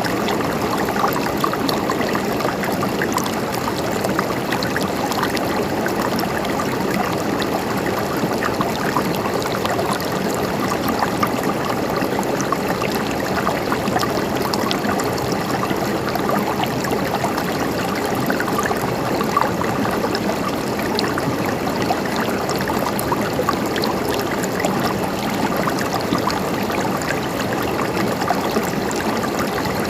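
River water flowing and gurgling over rocks, a steady rush with many small splashes.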